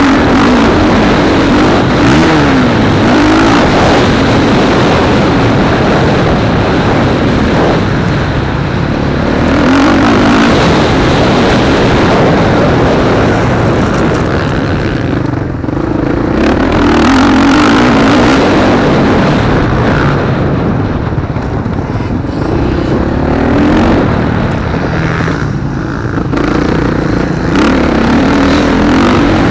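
Motocross motorcycles racing on a dirt track, their engines revving up and dropping back over and over as the riders accelerate and shut off through the course.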